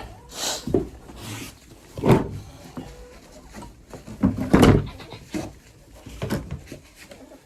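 Knocks, thumps and scraping as the chicken coop's door and latch are worked to let the hens out, with sharp thumps about two and about four and a half seconds in.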